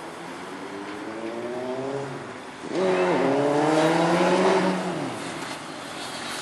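Motorcycle engine revving up as the bike accelerates. Its pitch climbs, drops at a gear change about two seconds in, then comes back louder, climbs again and dies away about five seconds in.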